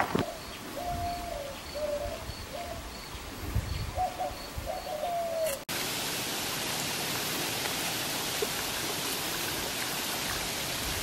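A bird calls in a series of low, whistled cooing notes, some of them gliding slightly. About halfway through, the sound cuts off abruptly to a steady, even rushing noise.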